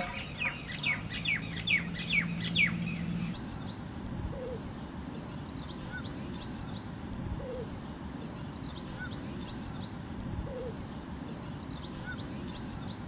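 Birds calling: a quick run of high, falling chirps for about the first three seconds, then fainter chirps and a short low call repeating about every three seconds.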